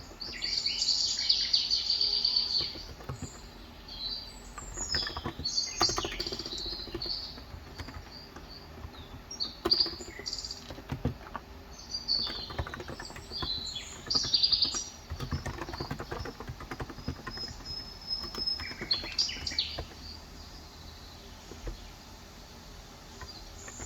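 Birds chirping and twittering in repeated bursts. Scattered keystrokes from a Cox Endeavor electro-capacitive (35 g) tenkeyless keyboard sound under the birdsong.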